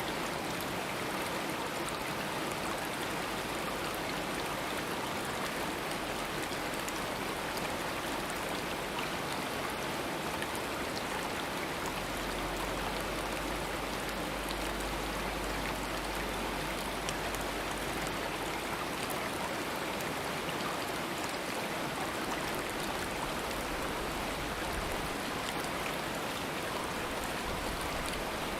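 Stream water running steadily, an even rush of flowing water.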